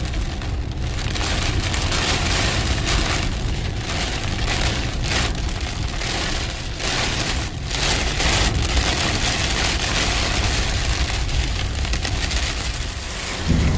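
Heavy rain falling, a dense steady hiss with a low rumble beneath it.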